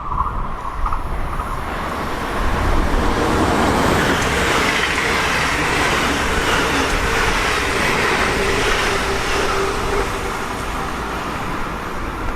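A train running past, a loud steady rumble and rushing noise of wheels on track that starts suddenly, swells about two and a half seconds in and eases slightly near the end.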